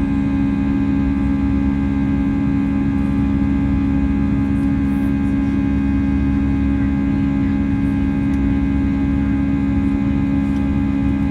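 Steady cabin drone of an Airbus A320's engines and airflow, heard from inside the cabin: a constant hum with a strong low tone and fainter steady tones over a rushing noise.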